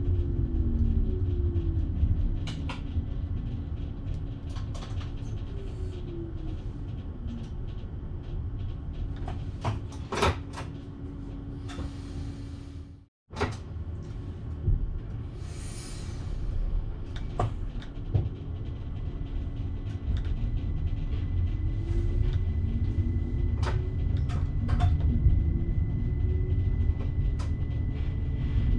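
Electric passenger train running, heard from the driver's cab: a steady rumble with a motor whine that falls early on and rises again in the last third. Scattered clicks and rattles run throughout, with two short hissing patches either side of a brief dropout about halfway.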